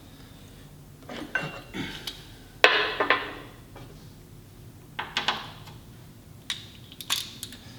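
Metal clanking and clinking: a handful of separate knocks, the loudest about two and a half seconds in, ringing briefly as it fades.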